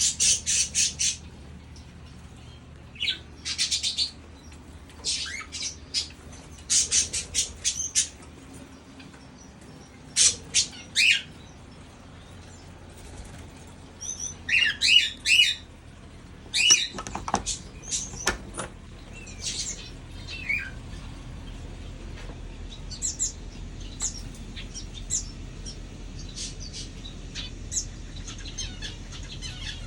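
Mixed aviary birds, finches and small parrots, chirping and calling in quick clusters of short high notes with brief gaps between. The calls are densest and loudest in the first half and grow thinner and fainter towards the end.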